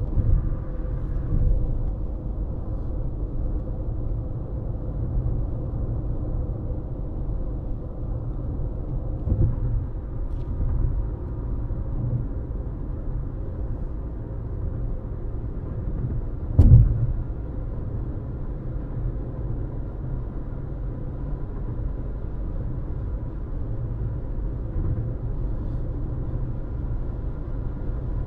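Car driving at road speed: steady low road rumble and tyre noise, with one sharp louder thump about seventeen seconds in.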